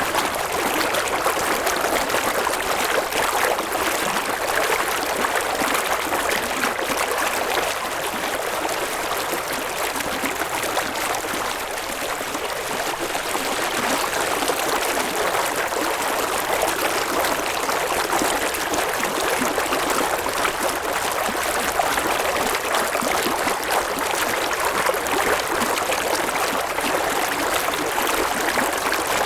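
River water running steadily over stones, a continuous babbling rush with no let-up.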